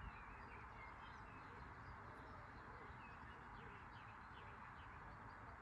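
Near silence: faint small birds chirping repeatedly over a steady background hiss.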